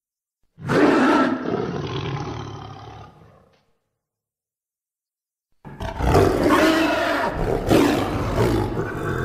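Cave troll creature sound effect: two deep, loud roars. The first starts about half a second in and fades out over about three seconds. After a silent gap, a longer second roar begins about six seconds in, surging several times, and is still going at the end.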